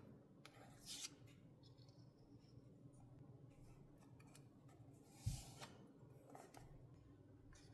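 Quiet desk work with paper: a few brief, faint paper sounds about a second in and again later, and a soft thump about five seconds in, over near-silent room tone.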